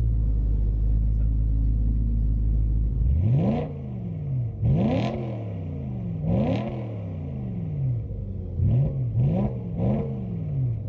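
BMW M3's V8 on its stock exhaust idling, then blipped six times: three revs about a second and a half apart, then three quicker ones near the end, each falling back to idle.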